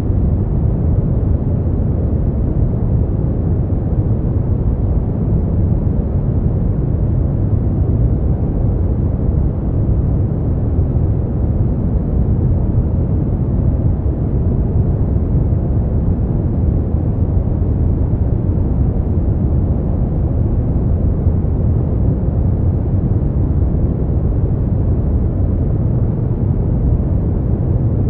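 Brown noise: a steady, deep rumbling hiss, strongest in the bass and dull in the treble, with no change.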